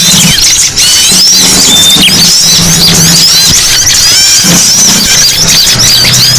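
Many small birds calling at once in a noisy, dense chatter of short, overlapping chirps and quick sweeping notes, as used in a lure recording to draw small birds. A low hum runs underneath.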